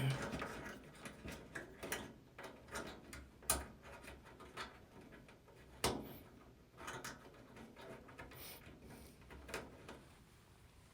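Faint scattered clicks and knocks of dryer parts being handled and fitted back into place during reassembly, with two sharper knocks about three and a half and six seconds in.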